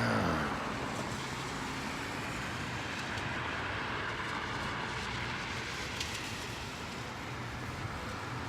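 A road vehicle passing close at the start, its pitch falling as it goes by, then steady street traffic noise.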